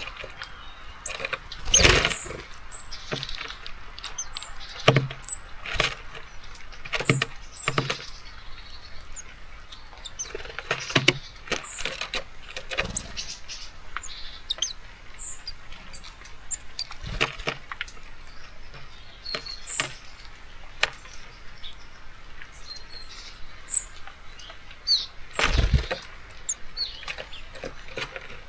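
Small birds at a seed feeder close to the microphone: a nuthatch and blue tits land, hop and peck, making repeated sharp taps and knocks with short high chirps between them. Two louder fluttering bursts of wingbeats come about two seconds in and near the end, over a faint rain hiss.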